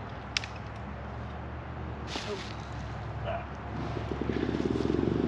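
A motor engine running steadily, growing louder with a rapid pulsing from about four seconds in; a single sharp click about half a second in.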